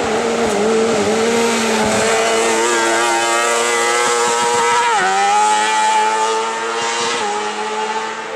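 Hill-climb race car engine under hard acceleration, its pitch climbing, with an upshift about five seconds in where the pitch drops sharply before the engine pulls on.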